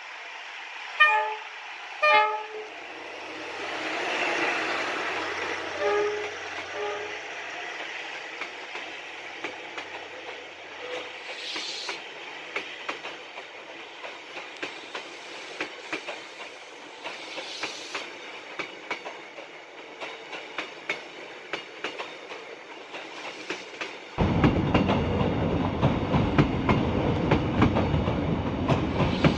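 Train passing through a station: the locomotive horn gives two short blasts about a second apart near the start and two more around six seconds in, then the wheels clack steadily over the rail joints. About 24 seconds in the sound jumps suddenly to a much louder, deeper rumble that holds to the end.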